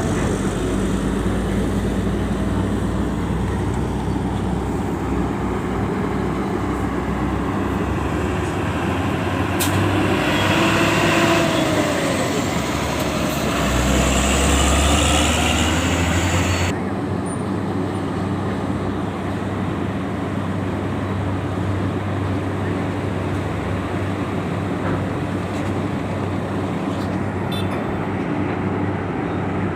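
Heavy diesel truck engines running as trucks roll off a ferry. One comes close and is louder for several seconds in the middle, with a gliding tone, before the sound drops suddenly to a steadier, quieter hum.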